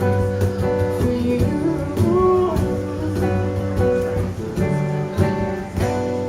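Live acoustic music: acoustic guitar strummed, with cajon hits keeping the beat and some notes bending in pitch.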